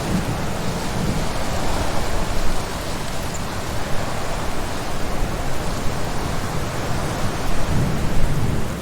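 Heavy rain pouring down steadily, a dense hiss with a low rumble underneath that swells slightly near the end.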